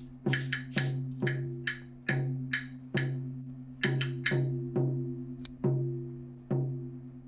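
Layered percussion ostinato: sharp, clicking wood-block-like strikes about twice a second over a low held note that is re-struck with each beat.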